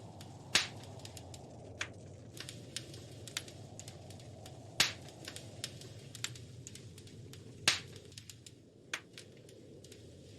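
Wood fire crackling in a fireplace: a steady low roar of flames under a stream of small sharp crackles, with three loud pops about half a second in, near five seconds and near eight seconds.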